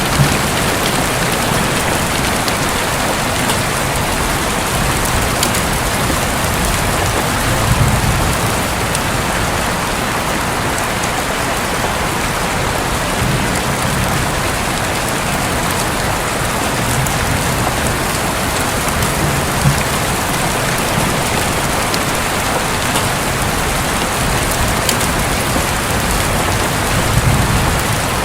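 Steady heavy rain pattering on a roof, with a few faint low rumbles of distant thunder rising and falling.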